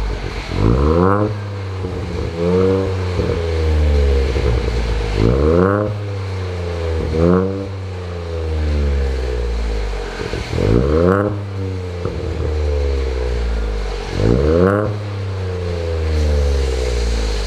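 Ford Fiesta's 1.0 EcoBoost three-cylinder engine revved through a newly fitted Cobra cat-back performance exhaust. Several quick throttle blips, each rising sharply in pitch and falling back to idle between them.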